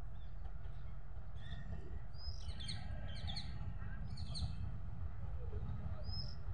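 Birds chirping and calling in quick bursts, most densely about two to four seconds in and once more near the end, over a steady low rumble.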